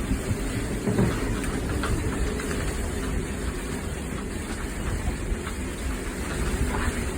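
Cyclone wind rumbling and buffeting over the boat and the microphone, with a louder burst about a second in.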